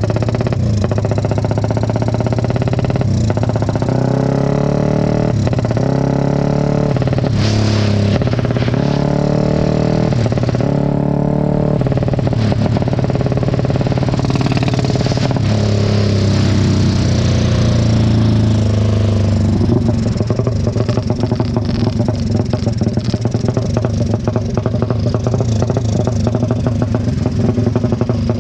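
Tuned four-stroke racing motorcycle engine revving hard, its pitch climbing and dropping again and again over the first dozen seconds and then holding high. About two-thirds of the way in it falls back to a fast, choppy, uneven running beat.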